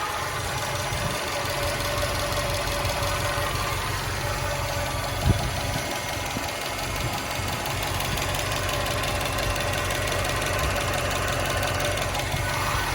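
2013 Subaru WRX's turbocharged flat-four running steadily with a rapid, even knocking, and one louder knock about five seconds in. The owner cannot tell whether it is normal injector tick or rod knock, and says it seems to be getting louder.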